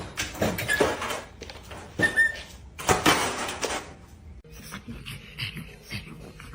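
Sounds of a dog: short, irregular noisy bursts, loudest about two and three seconds in, growing quieter in the second half.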